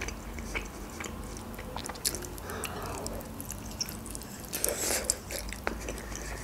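Close-miked chewing and biting of a Georgian khinkali dumpling: soft, wet mouth clicks and smacks, with a louder wet bite about four and a half seconds in.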